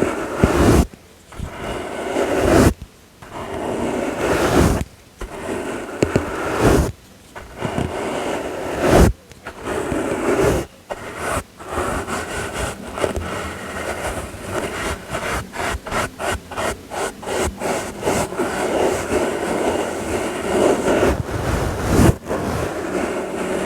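Brush bristles sweeping in scratchy strokes of varying length, with a run of quick short strokes, about three a second, around the middle.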